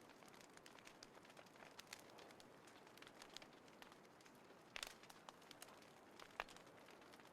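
Small wood fire burning in a compact folding fire pit, crackling faintly with scattered sharp pops, the two loudest about five and six and a half seconds in.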